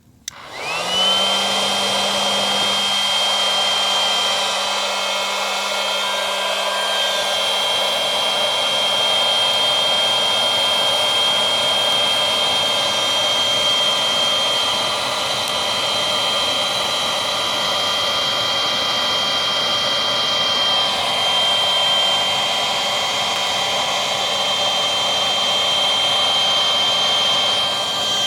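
Small electric air pump switched on and running steadily, blowing air to kindle a campfire; its whine climbs in pitch as it spins up, then holds steady with a brief dip about two-thirds of the way through.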